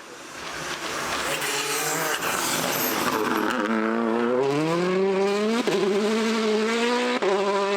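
Rally car on a gravel stage: first a rush of tyre and gravel noise, then the engine accelerating hard, rising in pitch and holding high, with two sharp cracks a second and a half apart.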